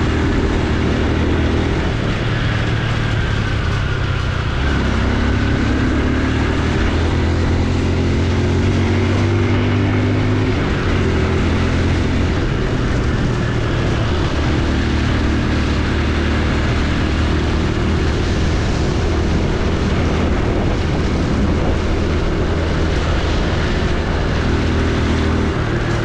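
Honda Super Cub C125's 125 cc air-cooled single-cylinder engine running while riding, its note shifting up and down as speed changes, over steady wind and road noise.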